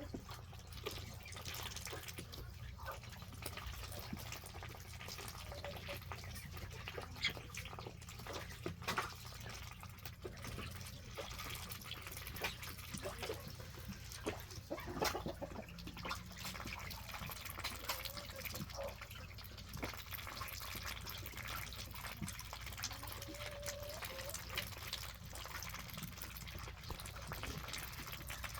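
Muscovy ducks dabbling their bills in mud and puddle water: scattered wet slurps, clicks and drips, irregular throughout.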